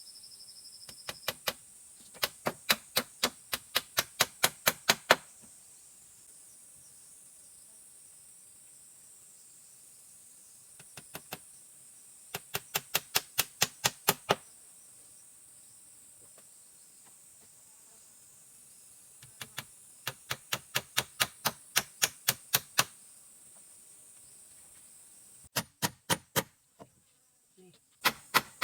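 Sharp knocks in quick runs of about four a second, each run growing louder, repeated four times, over a steady high insect hiss.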